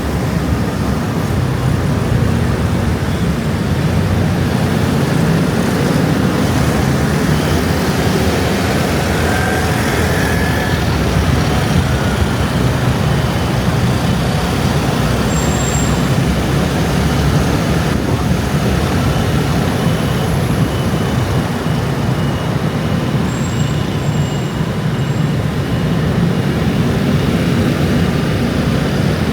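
Heavy rush-hour traffic of many motor scooters and other vehicles streaming past in a loud, steady, unbroken rumble.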